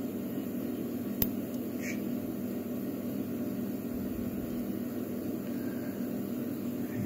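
Steady low background hum, like a fan or appliance running, with a single sharp click about a second in.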